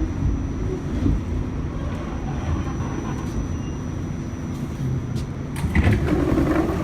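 R46 subway car in motion, heard from inside: a steady rumble of wheels on rail with a thin, steady high whine over it. A few sharp clicks come about five seconds in, and the noise grows louder near the end.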